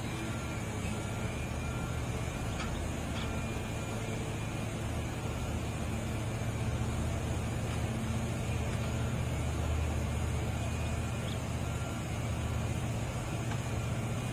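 Heavy diesel engine running steadily with a low drone that swells slightly a couple of times, and a few faint clicks.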